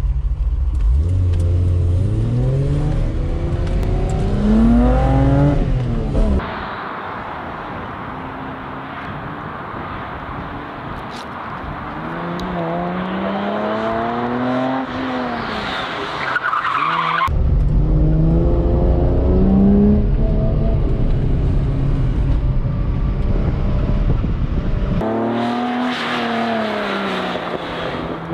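1973 Datsun 240Z's engine revving hard and falling back again and again through an autocross run, with brief tyre squeal in the turns. The sound changes abruptly several times as it switches between in-car and trackside recordings.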